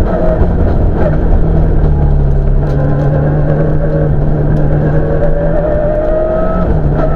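Toyota Celica rally car's engine heard from inside the cockpit under hard acceleration, its pitch climbing slowly for several seconds. Near the end the pitch drops sharply at a gear change, then starts climbing again.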